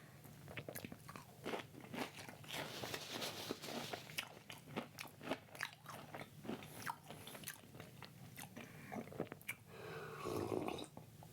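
Close-up crunching and chewing of crisp food: a person biting and chewing with many irregular sharp crunches.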